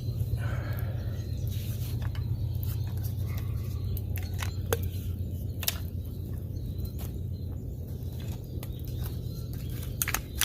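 Irregular sharp crackles and clicks over a steady low rumble, with a brief wavering bird call in the first second or so.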